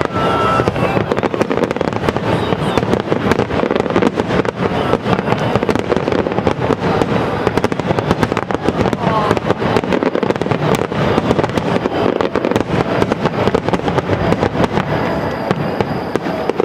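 Fireworks display in a dense, continuous barrage: rapid overlapping bangs and crackles with no break.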